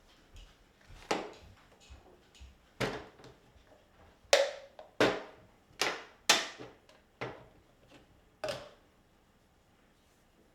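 Hard objects knocked or set down: about eight sharp knocks at irregular intervals, each ringing out briefly, the loudest near the middle.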